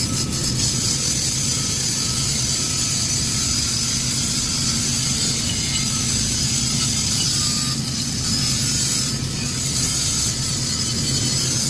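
Flux-cored arc welding with 1.2 mm wire under 80% argon / 20% CO2 shielding gas at about 200 A and 21 V: a steady, unbroken arc crackle and hiss.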